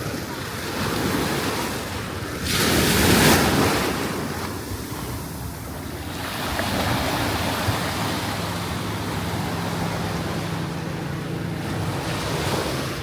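Ocean waves breaking and washing up the beach, with the loudest break about two and a half seconds in and a smaller swell a few seconds later. Wind on the microphone. A low steady hum joins about halfway through.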